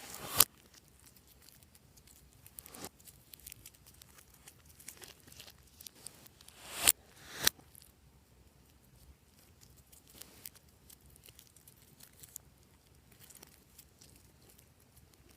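Slime being stretched and pressed by hand: soft sticky crackling, with a few louder pops that swell and then cut off suddenly as air pockets burst, the loudest about seven seconds in.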